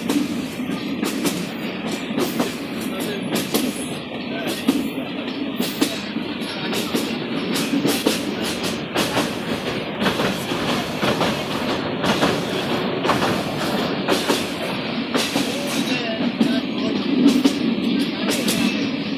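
Rangpur Express passenger train running along the track, heard from aboard a carriage: a steady rumble broken by many irregular clacks of the wheels over rail joints.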